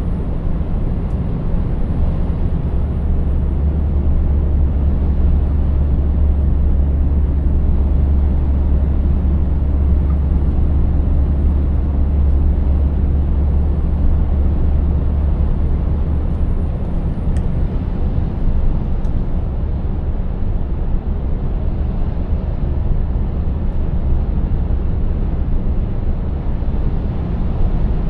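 Scania 590S truck's 16-litre V8 diesel running steadily under way, a deep low drone over tyre and road noise. The low drone eases a little just past halfway.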